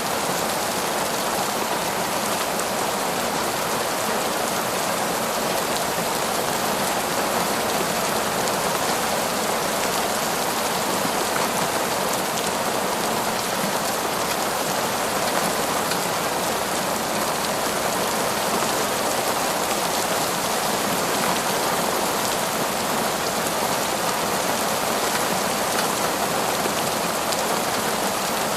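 Heavy, torrential rain falling steadily, a constant even hiss with no thunder or pauses.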